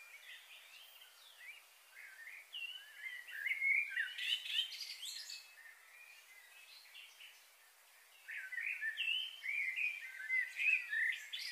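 Small birds chirping and singing in quick, varied phrases, in two busy bouts: one a few seconds in and another near the end, over a faint steady hiss.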